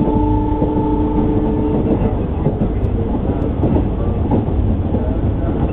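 Indian Railways passenger train running, heard from inside a carriage at an open window: a loud, steady rumble and rattle of the coach on the rails. At the start a multi-tone horn, most likely the locomotive's, is sounding and stops about two seconds in.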